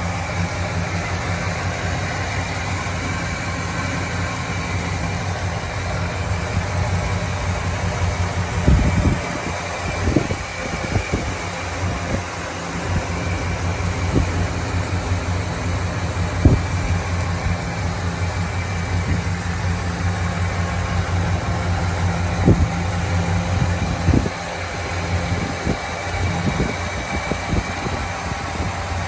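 1965 Pontiac Grand Prix V8 idling steadily shortly after a cold start, with a few brief knocks here and there.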